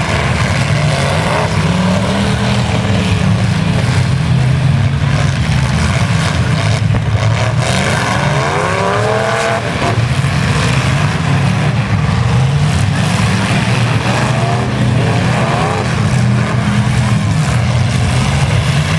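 Several full-size pickup trucks' engines running loud in a demolition derby, revving up and down over a steady low drone. The hardest revving comes about halfway through.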